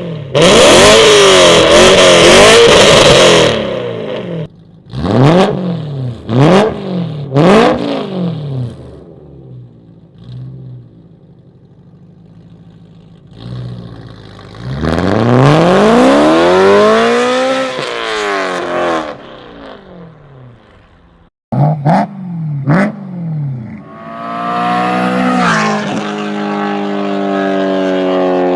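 BMW S65 4.0-litre naturally aspirated V8 of an E92 M3 being revved hard. It opens with a loud run at high revs, then gives several sharp throttle blips. Next comes one long rev that climbs and falls back, then two more blips and a sustained high-rpm pull near the end.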